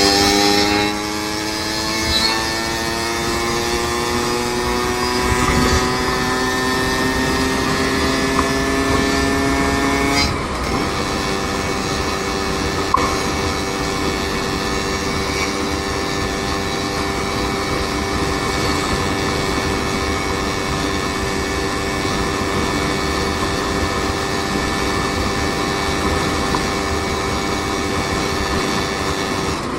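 A vehicle's engine accelerating, its pitch climbing steadily for about ten seconds, then dropping at a gear change and holding steady as it cruises, over a constant rush of road noise.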